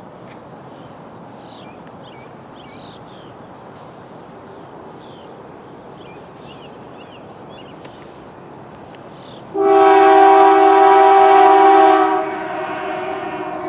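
Steady low rumble with birds chirping, then about nine and a half seconds in a CN diesel locomotive horn, led by C44-9W 2670, sounds loudly as a chord of several steady notes for about two and a half seconds, dropping in level but still sounding near the end.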